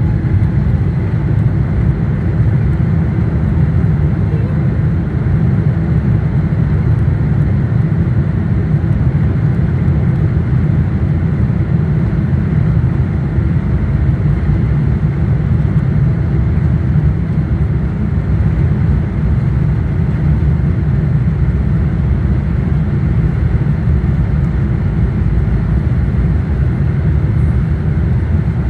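Boeing 777 jet engines running, a loud steady low rumble with a faint hum above it and no rise or fall in pitch.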